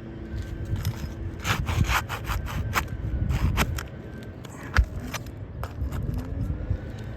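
Asphalt architectural shingle tabs being lifted and pried on a roof: a run of scrapes and sharp clicks as the tabs are worked loose, with one louder knock about five seconds in.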